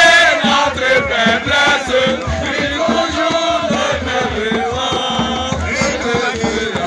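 A group of voices singing and chanting together over a steady rhythmic beat: a campfire song.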